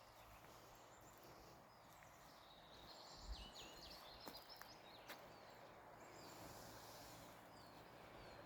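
Near silence: faint outdoor ambience with a few distant bird chirps about three to five seconds in and again shortly after, and a couple of faint clicks.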